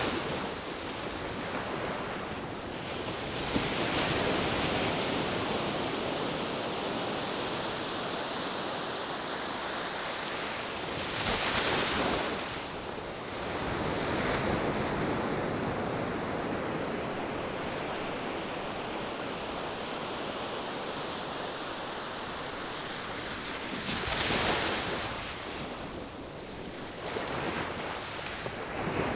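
Ocean surf washing continuously onto the shore, with waves breaking and swelling louder three times: near the start, about 12 seconds in, and about 24 seconds in.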